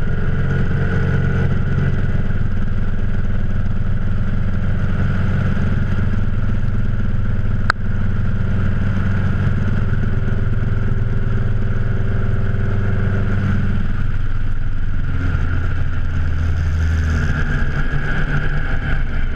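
Motorcycle engine running steadily under way, with a single sharp click about eight seconds in and a change in the engine note about fourteen seconds in.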